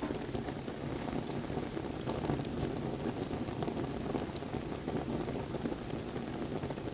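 Wood fire burning: a steady hiss and crackle with a few sharp pops.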